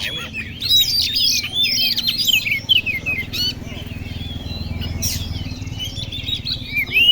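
Oriental magpie-robin (kacer) singing a fast run of varied whistled and chattering phrases, over a steady low hum. The song thins out midway and picks up again near the end.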